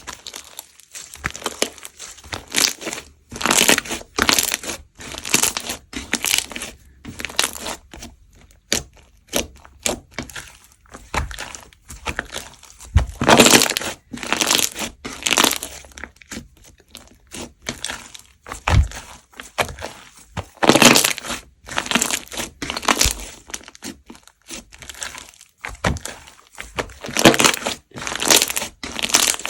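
Foam-ball slime being squeezed and pressed by hand, the foam beads crunching and crackling in irregular bursts.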